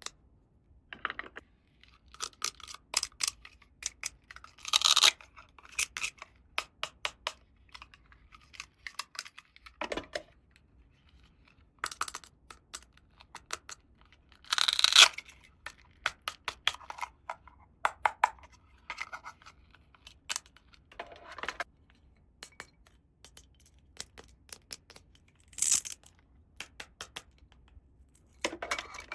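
Small plastic toy parts and packaging being handled: a scatter of light clicks and taps, with a few louder tearing rustles, the strongest about five and fifteen seconds in.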